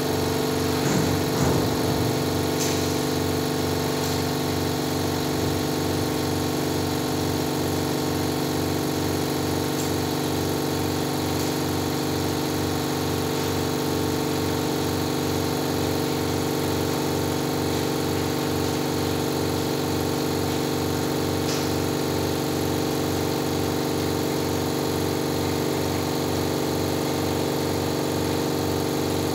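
A machine's motor or engine running steadily, a constant hum with a regular low throb.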